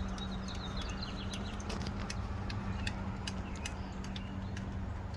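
Scattered light clicks and ticks as loosened bolts are backed out by hand under the hood, with birds chirping in the background over a steady low hum.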